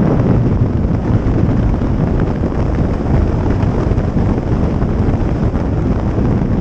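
Steady wind rush on the microphone of a moving motorcycle, mixed with the engine and road noise.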